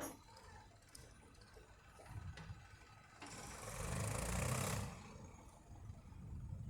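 Tractor engine running, a low rumble, with a louder burst of hiss and rumble about three seconds in that lasts under two seconds.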